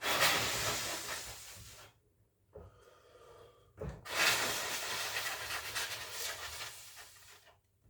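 A person blowing hard to clear cat fur off a phone's back panel: two long breaths of rushing air, each fading as it runs out, the second longer.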